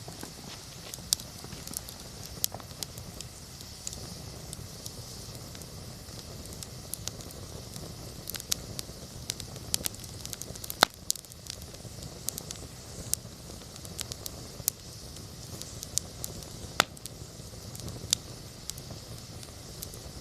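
Wood campfire burning: scattered sharp crackles and pops over a steady soft hiss and a low rumble, with the loudest pops about eleven and seventeen seconds in.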